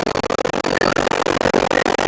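R142 subway car running along the track, heard from inside: a loud, steady roar of wheels and running gear, broken up by many rapid, brief dropouts.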